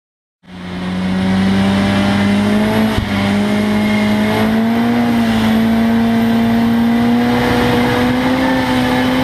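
Turbocharged four-cylinder engine of a tuned front-wheel-drive Opel Kadett E (Vauxhall Astra Mk2) under full load at high revs. It cuts in abruptly about half a second in, then its pitch climbs slowly and steadily, as in a long pull in a high gear.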